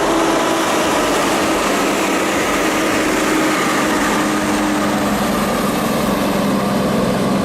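Tractor engine running steadily under a loud rushing noise, its tones holding with only slight shifts in pitch.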